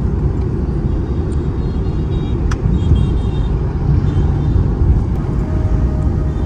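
Steady low rumble of a moving car, with road and engine noise, and a single light click about two and a half seconds in.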